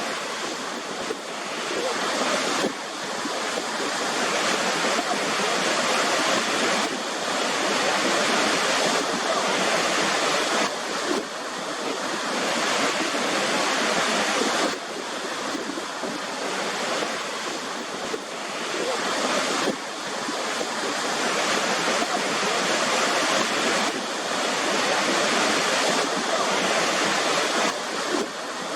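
Waterfall: a steady rush of falling water, with small sudden shifts in level now and then.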